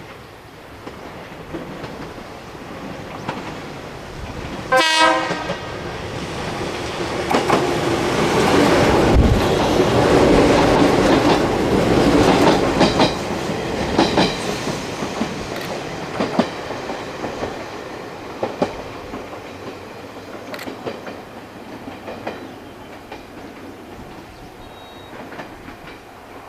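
Izuhakone Railway 1100 series electric train sounding a short horn blast about five seconds in, then passing by with its wheels clacking over the rail joints. It is loudest around the middle and fades slowly away.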